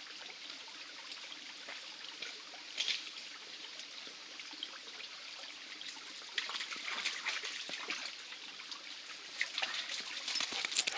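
Small stream trickling over rocks, a steady water hiss that grows somewhat louder about six seconds in, with a few faint clicks.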